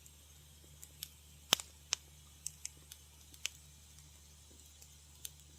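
Wood fire crackling in a fireplace: about ten sharp, separate pops and snaps over a faint steady hiss, the loudest two about one and a half and two seconds in.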